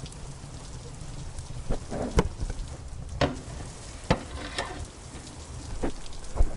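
Wood fire crackling in a fireplace, with irregular sharp pops, a few of them loud, over a steady background of rain.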